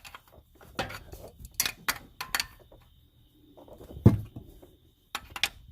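Scattered metallic clinks and clicks of hand tools working loose an oil pan drain plug, with a sharper knock about four seconds in.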